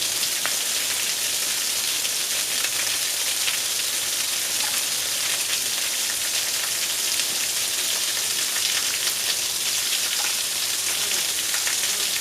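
Waterfall: a steady hiss of falling, splashing water that holds even throughout.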